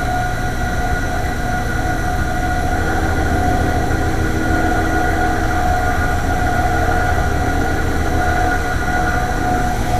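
Fan motor of a 5-ton AAON rooftop HVAC unit running, a steady low rumble with a constant high whine over it. The noise comes from bearings going out, in the motor or the fan, which the technician calls awful.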